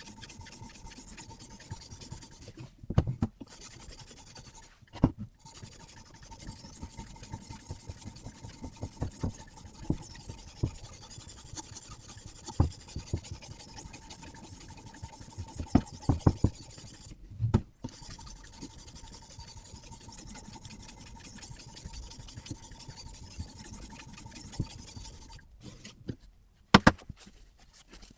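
Sharpening stone on a guided-rod sharpener rubbing along a carbon-steel knife blade in repeated scraping strokes, with a few sharp knocks along the way.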